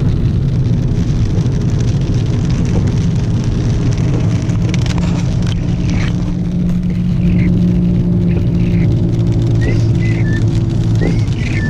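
Car engine and tyre noise heard from inside the cabin while driving on a wet road in rain: a steady low drone that grows a little stronger in the middle. A few faint high chirps come near the end.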